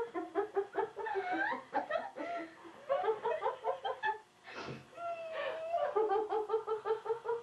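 Women laughing hard, a long run of quick repeated "ha" pulses with a brief catch of breath partway through.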